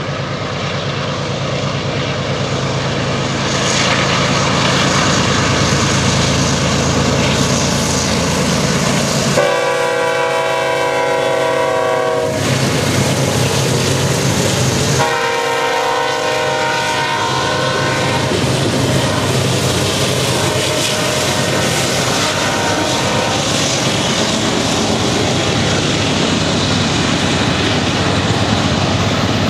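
BNSF diesel freight locomotives running hard as they pass close by, their engine drone swelling a few seconds in. About ten seconds in, the lead locomotive sounds a multi-chime air horn in one long blast, and a second, softer blast follows about five seconds later. After the locomotives go by, the steel wheels of the double-stack container cars rumble and clatter steadily over the rails.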